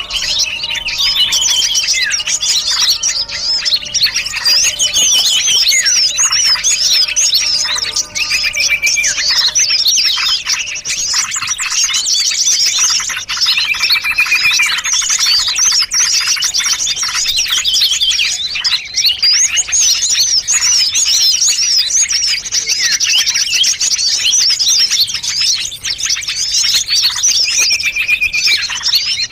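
Mixed bird-lure recording: many small songbirds chirping, trilling and calling over one another in a dense, unbroken chorus of high, rapid notes, with some lower whistled notes in the first ten seconds or so. It is a combined lure track made to draw small wild birds in.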